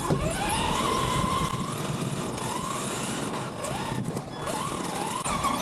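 Radio-controlled toy car driving, its electric motor whining and rising and falling in pitch with the throttle over steady rolling and ground noise.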